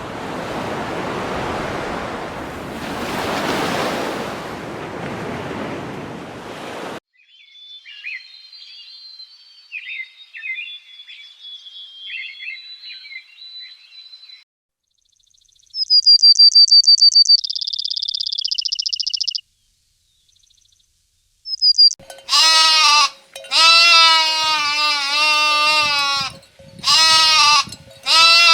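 A rushing noise for the first seven seconds, then small birds chirping and a rapid high trill, and in the last third a goat bleating again and again with a wavering voice.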